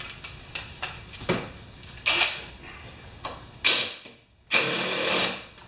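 Hand ratchet clicking in short rapid runs, with a few single clicks, as a lawn mower blade bolt that has just broken loose is backed off.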